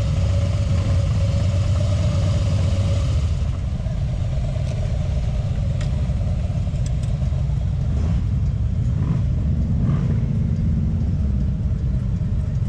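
Several motorcycle engines idling together with a steady low rumble.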